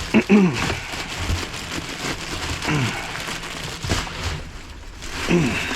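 Plastic food packaging rustling and crinkling as it is rummaged through and handled in a dumpster, with three short, low, voice-like sounds that fall in pitch.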